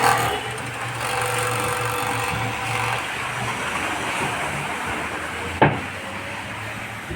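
Jack E3 overlock sewing machine running steadily, with one sharp click about five and a half seconds in.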